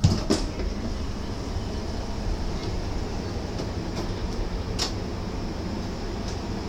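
Doors of a DB Regio double-deck coach thudding shut right after the closing chime, with a second smaller knock just after. This is followed by the steady low rumble of the train, with a few faint clicks.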